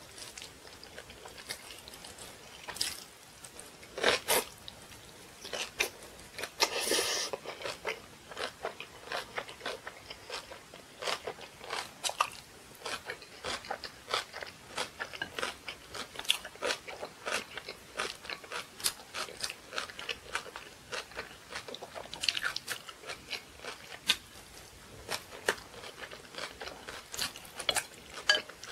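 Close-miked chewing of napa cabbage kimchi and rice: many irregular, crisp crunches in quick succession, with a longer stretch of crunching about seven seconds in.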